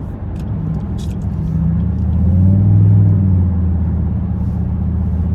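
Cammed 2008 Chevrolet Impala SS with a 5.3-litre LS4 V8 and a full 3-inch straight-pipe exhaust, heard from inside the cabin: a deep exhaust drone that grows louder about two seconds in, then holds.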